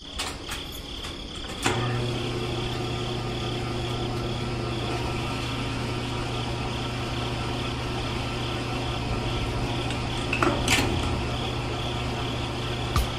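Small electric motor of a miniature model cement mixer switched on and turning its drum of wet cement mix. It gives a click at the start, then a steady buzzing hum that settles about two seconds in, with a few knocks along the way.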